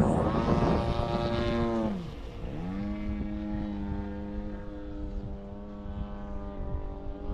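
Electric motor and propeller of a 67-inch Extreme Flight Extra 260 RC aerobatic plane running under power just after takeoff, with loud rushing noise in the first two seconds. About two seconds in the pitch dips sharply as the throttle comes back, then climbs again and settles into a steady drone.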